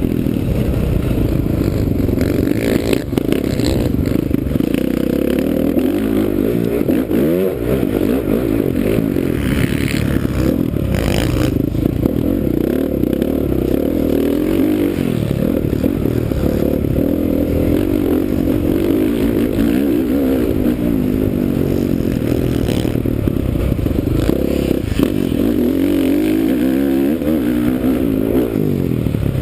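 2009 Honda CRF450R's single-cylinder four-stroke engine revving up and down as the motocross bike is ridden hard around the track, its pitch rising and falling with the throttle. A few short knocks and rattles sound over it.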